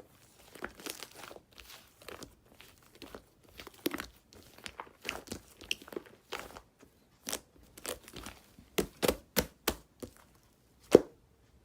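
Apricot bread being torn apart and chewed close to the microphone: irregular crackly tearing and crunching sounds, with one sharp loud crack near the end.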